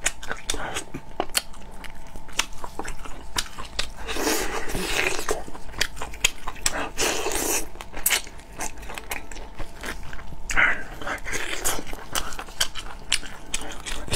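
Close-miked eating of braised bullfrog legs: wet chewing and biting with many sharp mouth clicks and smacks. There are a few longer, rougher stretches about four, seven and eleven seconds in.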